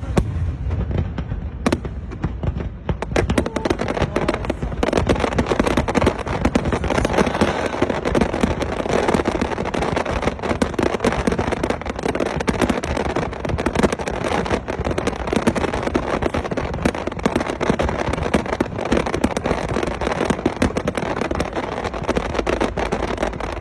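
A New Year fireworks display. A few separate bangs come in the first seconds, then a dense, continuous barrage of rapid bangs and crackling.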